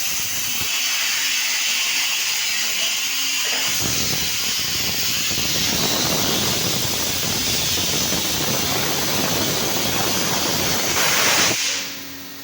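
Steam hissing out of a newly installed steam boiler: a loud, steady rush that turns deeper and rougher about four seconds in, then cuts off suddenly near the end.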